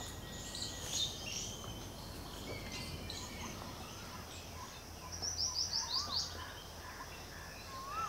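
Birds chirping and calling, with a quick run of about six high notes about five seconds in that is the loudest sound, and scattered short whistles over a steady faint outdoor hum.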